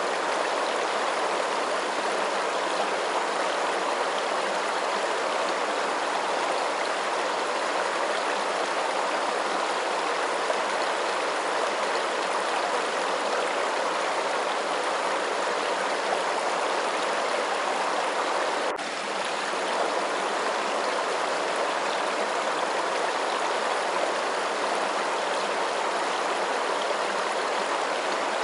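Steady flowing water, an even rushing sound with no change in level, broken only by a faint click and a brief dip about two-thirds of the way through.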